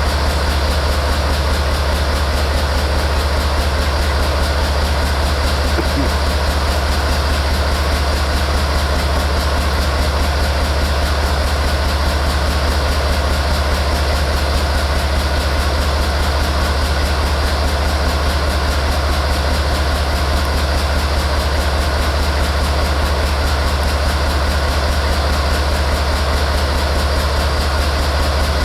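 Diesel-electric locomotive idling steadily, a constant low engine drone with no change in speed.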